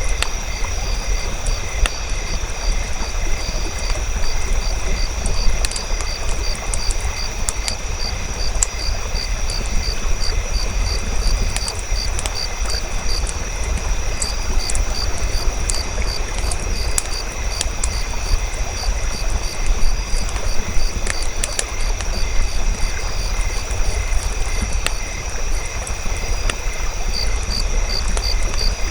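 Campfire crackling with scattered sharp pops over a steady low rumble, while crickets chirp in a fast, even pulsing rhythm.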